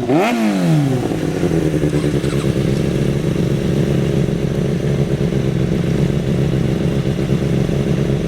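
Kawasaki Ninja ZX-6R (636) sport bike inline-four engines: a quick rev with the pitch sweeping up and down in the first second, then running at a steady pitch.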